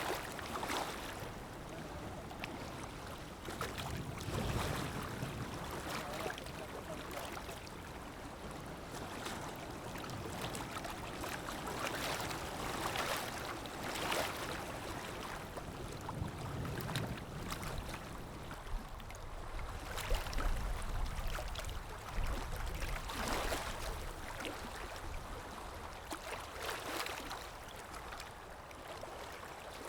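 Ocean waves washing ashore: a steady hiss of surf that swells and breaks every few seconds, with a deeper rumble about two-thirds of the way through.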